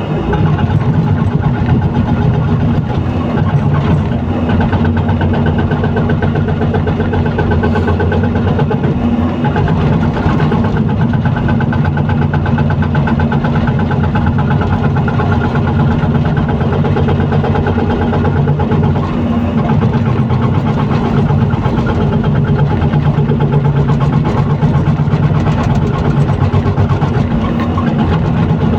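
Excavator's diesel engine running steadily, with a few faint knocks over it.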